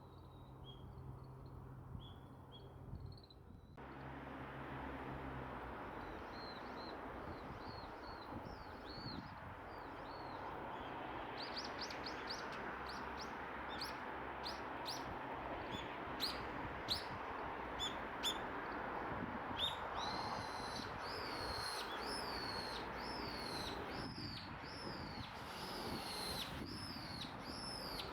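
Small songbirds calling in short high chirps, few at first and busier about halfway through. Near the end comes an evenly spaced series of downward-curving chirps about once a second, all over a steady rushing background.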